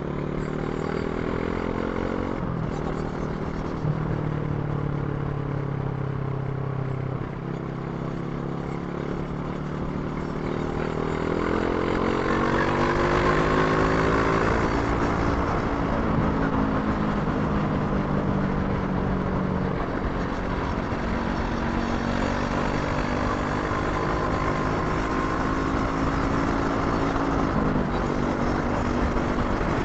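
Brixton Crossfire 500's parallel-twin engine riding on the road, its pitch stepping up and down with shifts: a long climb in revs about a third of the way in, easing off after the midpoint, then a steady cruise with another sudden step near the end. A low rush of wind on the microphone runs under it.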